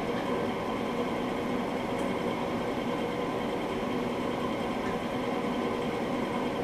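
A steady mechanical hum with a few fixed pitches, unchanging throughout, with one faint tick about two seconds in.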